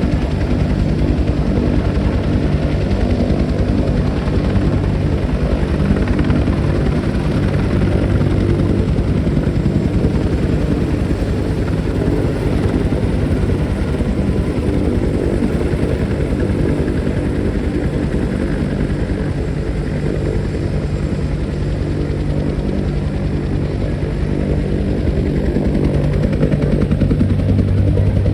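Military helicopter taking off, its rotor beating in a fast, steady chop at close range, dipping slightly past the middle and swelling again near the end.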